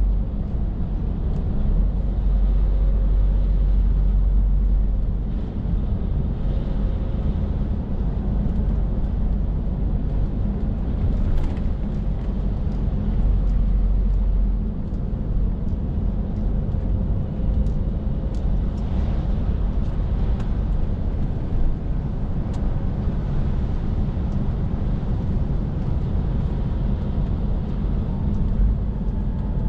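Scania R450 lorry's 13-litre six-cylinder diesel running steadily on the move, a low drone under road and tyre noise, with a few faint clicks.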